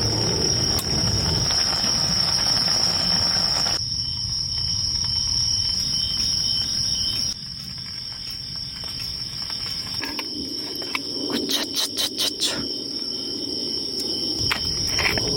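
Crickets singing: a steady, continuous high trill. A quick run of sharp clicks about two thirds of the way in.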